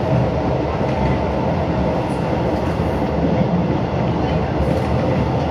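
Passenger train running along the track, heard from inside the carriage: a steady low rumble of the wheels on the rails.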